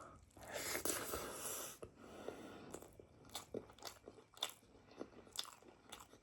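Close-miked chewing and biting of a mouthful of meat and rice: a busier stretch of chewing in the first two seconds, then a run of short, wet mouth clicks.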